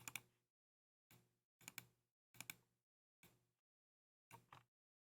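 Keychron K2 mechanical keyboard keystrokes, sparse and unhurried: single clicks and quick pairs with pauses of half a second to a second between them.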